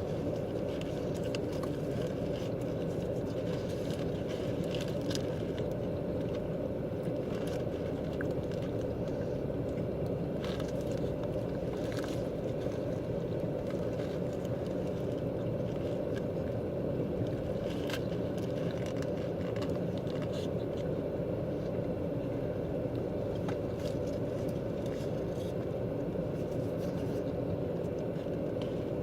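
Steady low rumble of a running car heard inside the cabin, with scattered faint clicks and smacks of chewing food.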